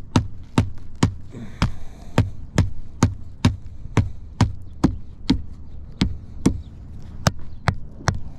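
Steady run of sharp nailing strikes on roof shingles, about two or three a second.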